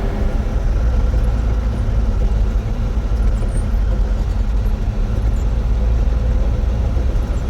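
A motor vehicle's engine and road noise: a steady low rumble with no breaks.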